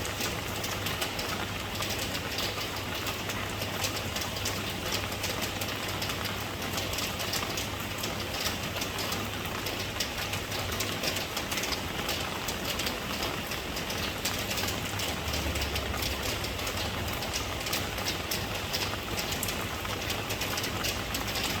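Steady rain: an even hiss dense with small drop impacts, over a low, steady rumble.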